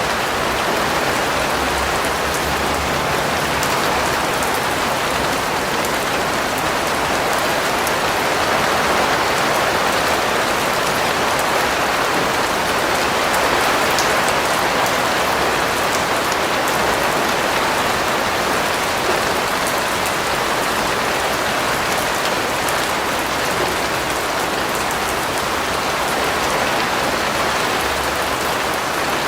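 Steady rain falling on a surface, an even hiss of many drops with faint individual drop ticks, unchanging throughout.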